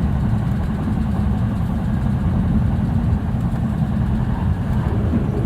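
Running noise of a JR East E657 series limited express electric train heard from inside the car: a steady low rumble of the wheels on the track.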